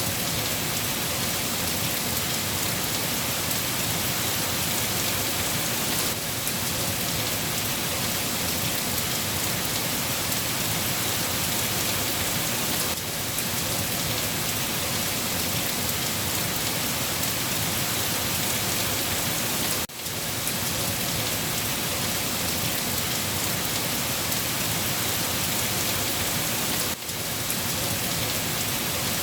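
Steady rain falling, an even hiss, with a brief dip in level about every seven seconds.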